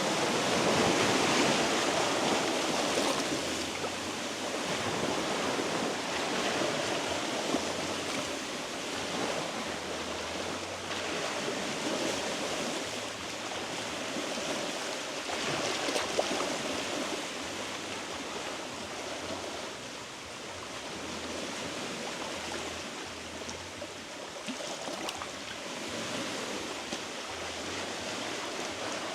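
Sea waves washing against shoreline rocks: a steady rushing wash that swells and eases every few seconds, with a couple of faint clicks.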